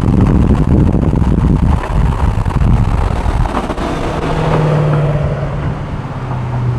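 V8 pickup truck engine running hard with a heavy low rumble and rushing road and wind noise. From about four seconds in the engine settles into a steady note that drops slightly in pitch.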